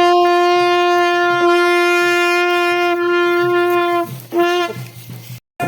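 A horn sounding one long, steady note for about four seconds, then a second, shorter blast near the end.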